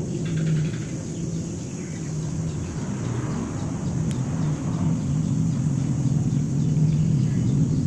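A steady low rumble, like a motor running.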